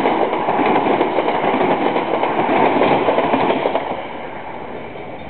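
A steam excursion train rolls past close by, a loud rumble and clatter of wheels on the rails. It falls away noticeably about four seconds in as the train moves off.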